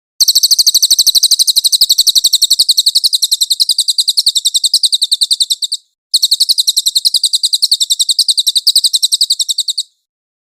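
Cililin songbird giving a fast, even trill of sharp, high-pitched notes, many a second, in two long runs broken by a short pause a little past the middle.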